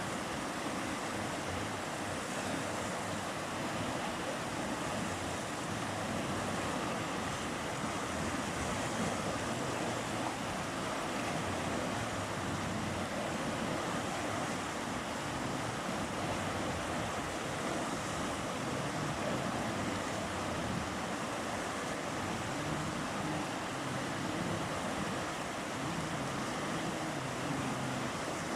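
River water flowing and rushing, a steady, even roar with no breaks.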